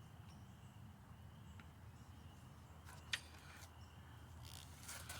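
Near silence: a faint steady low hum with a thin high tone, broken by one sharp click about three seconds in.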